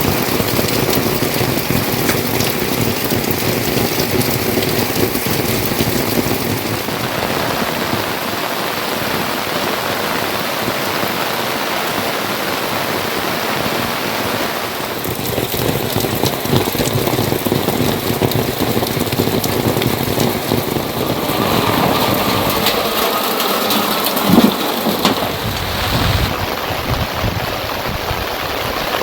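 Steady heavy rain falling and pattering on surfaces. Its sound changes abruptly a few times, and there is one brief louder thump about three-quarters of the way through.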